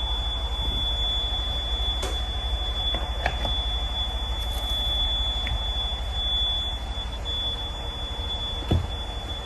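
Caterpillar C18 diesel engine running steadily while warming up, with an even low firing pulse and a steady high-pitched whine over it. A few light clicks, and a short knock near the end.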